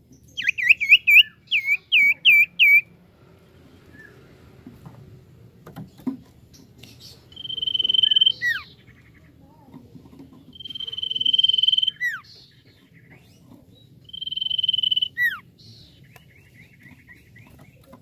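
Common iora (cipoh/sirtu) singing. It opens with a quick run of looping chattering notes, then gives three long, steady drawn-out whistles, each ending in a quick falling note, and a short rapid trill near the end.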